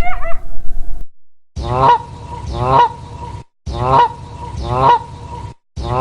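Goose honking: the same short recording of two honks plays twice in a row, starting and stopping abruptly, and a third copy begins near the end. A different animal's gliding call ends about a second in, before the honks.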